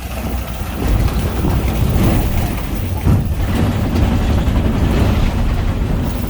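Safari truck driving on a bumpy dirt track: engine running under the jolting and rattling of the open vehicle, louder from about a second in.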